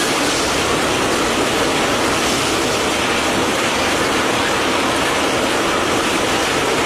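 Heavy rain pouring onto flooded ground, a steady hiss with no break.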